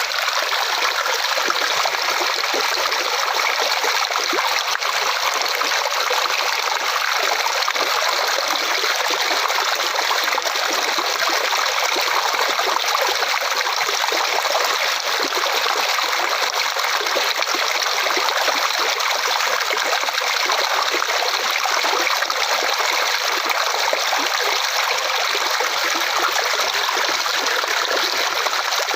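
Flowing water running and trickling steadily, a stream-like rush with no change.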